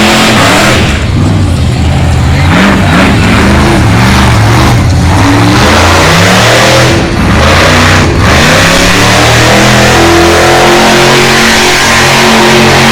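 A monster truck's engine, very loud, revving up and down again and again during a freestyle run, then holding a steadier high rev near the end.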